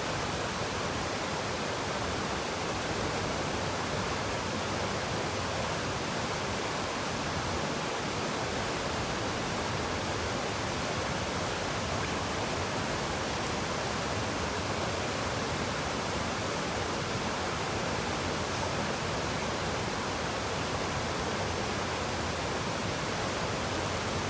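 Water of a waterfall and river rushing, a steady, unchanging hiss of white water.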